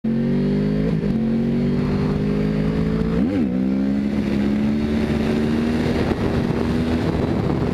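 Sportbike engine running under load, its pitch climbing slowly, with two short jumps in pitch, about one second and about three seconds in.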